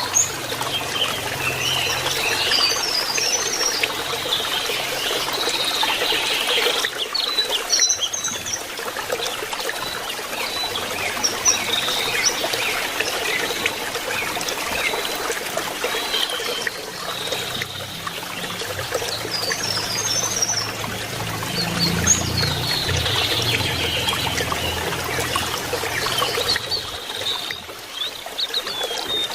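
Water trickling steadily, with short bursts of quick, high twittering song from a lesser shortwing every few seconds.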